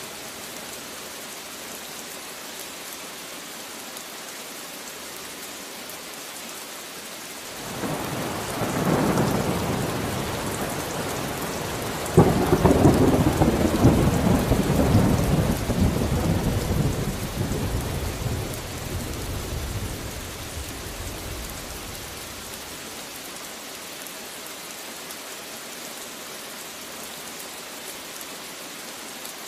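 Steady rain with a peal of thunder: a rumble builds about eight seconds in, a louder crack comes about twelve seconds in, and the thunder rolls away over the next ten seconds, leaving the rain.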